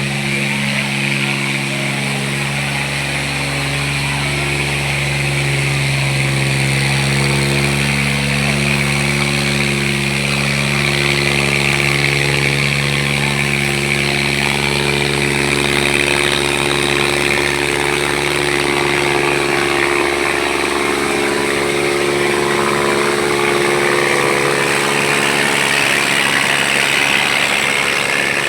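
Tractor diesel engines running steadily under heavy load while pulling against each other in a tug-of-war. The engine note holds steady, then shifts about two-thirds of the way in, with a higher whine rising near the end.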